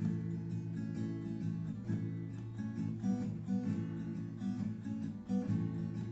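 Acoustic guitar strumming basic chords, with no singing.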